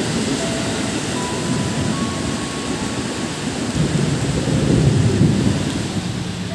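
Heavy rain pouring down in gusty wind while a KRL electric commuter train pulls away. A low rumble swells about four seconds in and fades a second or so later.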